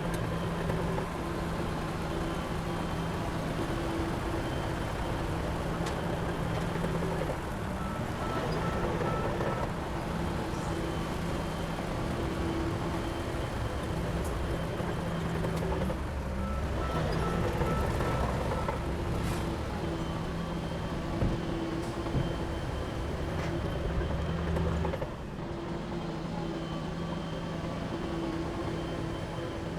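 Heavy construction-machine diesel engine running, its sound shifting twice, about 8 and 17 seconds in.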